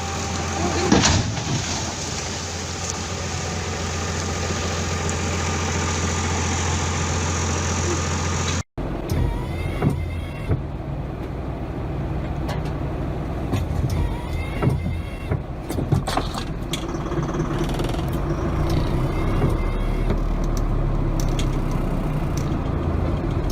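Heavy vehicle engines running: a steady low drone, then after a cut about nine seconds in, a rougher engine sound with a few short knocks.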